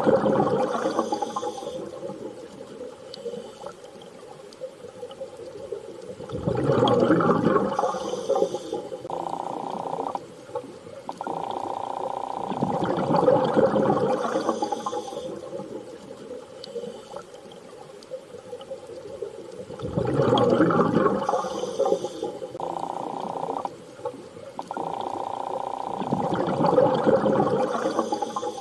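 Underwater-style water ambience: rushing water surging and fading about every seven seconds, with short steady tones between the surges.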